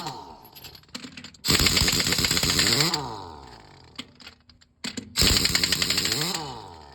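Pneumatic impact wrench hammering in two bursts of about a second and a half each, the motor whining down after each release, as fasteners on a Scania truck's brake caliper are worked.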